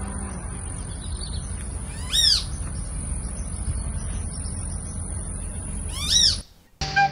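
A bird calls twice, about four seconds apart; each call is a clear note that rises and falls in pitch. Underneath run a steady low outdoor rumble and a thin, steady high whine.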